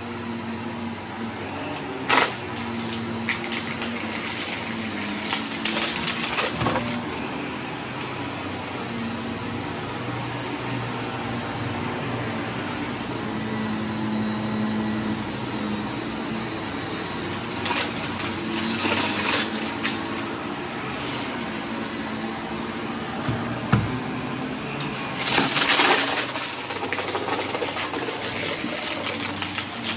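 Vacuum cleaner running, sucking up spilled debris in a mess test, with several louder bursts of rattling as clumps of mess go up the nozzle.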